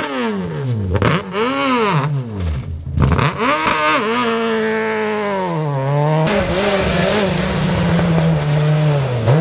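Rally car engine revving hard, its pitch climbing and dropping repeatedly through gear changes and lifts. About six seconds in the sound changes abruptly to a steadier, lower engine note.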